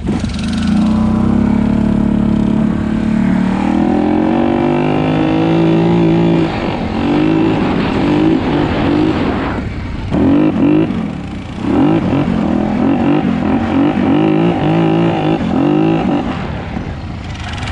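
Small mini bike engine running under throttle while riding. Its pitch climbs steadily over the first few seconds as it speeds up, then rises and falls with the throttle, easing off briefly twice around the middle.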